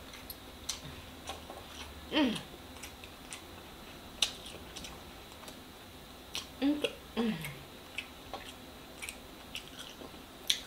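Close-miked chewing with scattered small wet clicks and smacks from the mouth. A few short 'mmm' hums of enjoyment fall in pitch, one about two seconds in and two more around six to seven seconds in.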